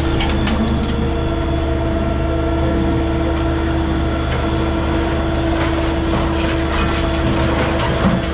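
Heavy machinery running steadily: a constant low drone with a held mid-pitched hum.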